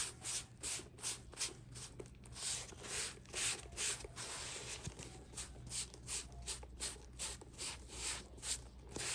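A sponge rubbing conditioner into a leather bag in quick back-and-forth strokes, about two or three a second, making a soft swishing scrub.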